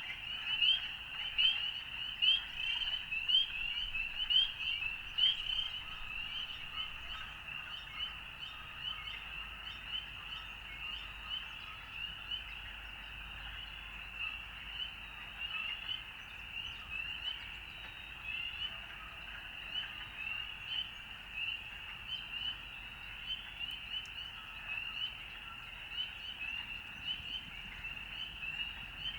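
A dense chorus of frogs: many short, high calls overlapping without pause, loudest over the first few seconds.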